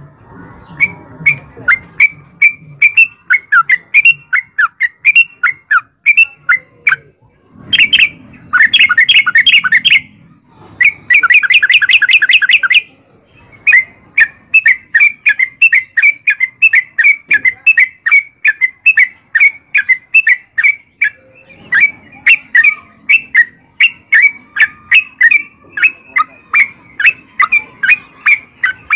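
Yellow-vented bulbul (trucukan) singing a long, fast song of short, bubbly notes repeated a few times a second, broken by two denser rapid runs about a third of the way in.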